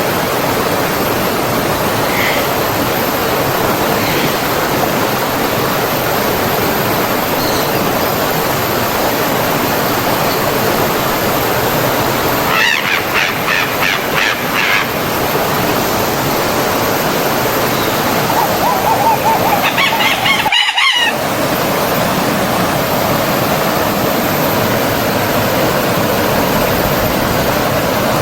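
Steady rush of a flowing stream. A few faint, short bird chirps come in the first eight seconds, a louder, repeated bird call at about the halfway point, and another call around two-thirds of the way in. The sound cuts out for a split second just after that.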